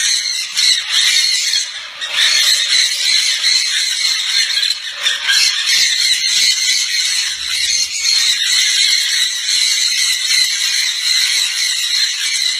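Conure parrots screeching and squawking nonstop in a squabble, many shrill calls overlapping, with a brief lull about two seconds in.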